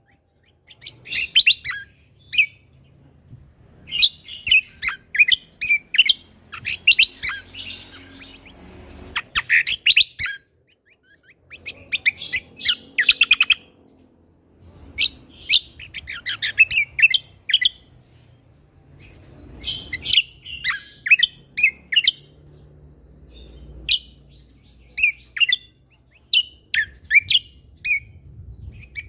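Cucak kombo (kecial kombok) songbird singing energetically in repeated phrases of rapid, sharp high chirps and trills, each phrase a second or two long with short pauses between.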